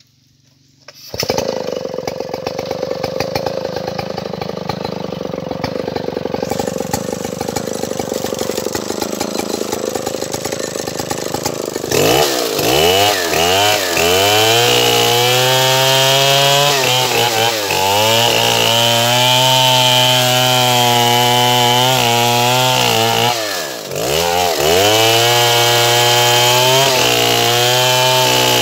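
Stihl 070 two-stroke chainsaw starting about a second in and running at low throttle. About halfway through it is opened up to full throttle, and its speed dips and recovers several times, as it does under load in a cut. Near the end it briefly drops back toward idle before revving up again.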